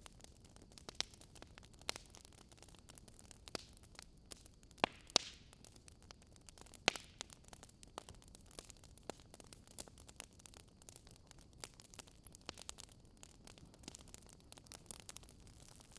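Wood fire crackling: irregular sharp pops and snaps, a few louder than the rest, over a faint steady hum and hiss.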